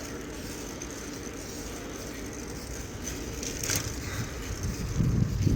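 Bicycle rolling along with steady tyre and road noise, a brief hiss about three and a half seconds in, and wind buffeting the microphone, which grows stronger near the end.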